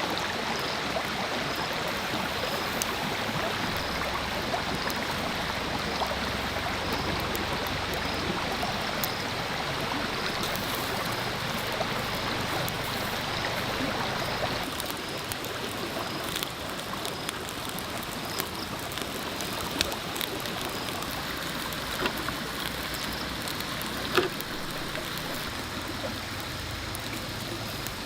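Steady rushing water that eases slightly about halfway through. A faint high chirp repeats at an even pace in the first half, and a few sharp clicks come in the second half.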